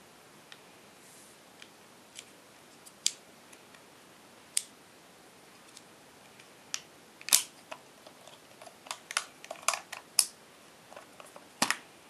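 Sharp plastic clicks and snaps from handling the parts of a GoPro HERO3 unboxing. The clicks are sparse at first and come thicker in the second half, the loudest about seven seconds in and near the end.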